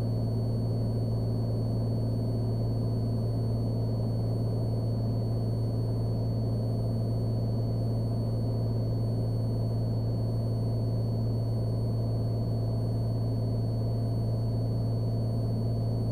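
Cessna Skylane's single piston engine and propeller droning steadily in flight, heard from inside the cabin, with a faint high steady whine above it.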